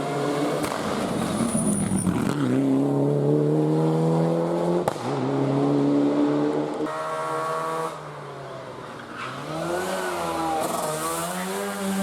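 Rally car engine accelerating hard, its note climbing and dropping back at each of several gear changes, then easing off and rising and falling again near the end.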